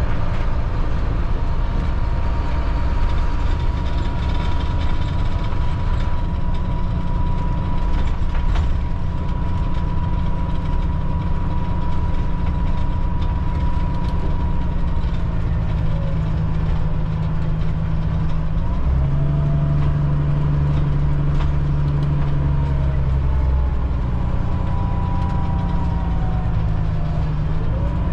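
Cat C7 inline-six diesel of a Blue Bird All American bus running while driving, a steady low drone with a thin high whine over it. The engine note changes about two-thirds of the way through, with some rising and falling tones near the end.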